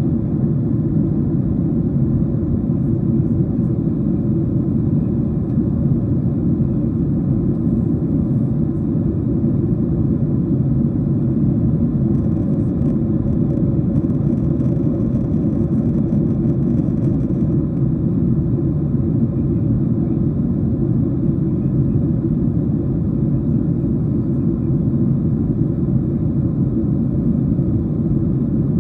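Steady cabin noise inside a Boeing 737-700 in flight: a deep, even rumble of airflow and the CFM56 turbofan engines, with no change in level.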